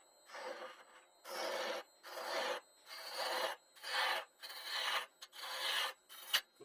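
Turning gouge cutting a small wooden bowl spinning on the lathe, in a series of short scraping strokes, about nine of them with brief gaps between, as the bowl wall is thinned.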